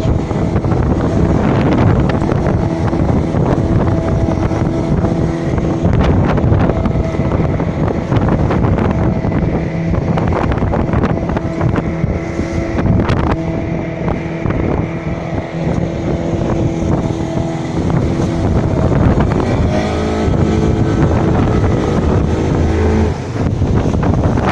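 Motor launch's engine running under way on rough sea, with wind buffeting the microphone. The engine note shifts about twenty seconds in.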